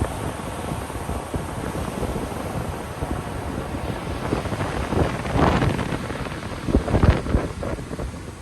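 Ocean surf washing on a beach, with wind buffeting the microphone in a low rumble. It swells louder about five seconds in and again near seven seconds.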